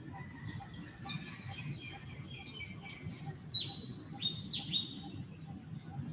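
Birds chirping with scattered high notes. The loudest part is a quick run of sharp, downward-sweeping chirps about halfway through.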